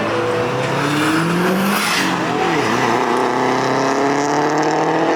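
Car engine accelerating hard, its pitch climbing steadily over several seconds, with a brief dip and recovery partway through.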